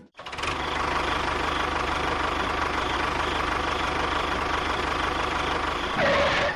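An engine running steadily with a fast, even pulse, getting louder about six seconds in.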